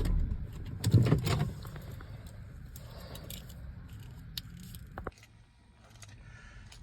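A car's V8 engine being switched off: its low running rumble dies away at the start, followed by keys jangling and small clicks as the key comes out of the ignition, and a sharp click about five seconds in.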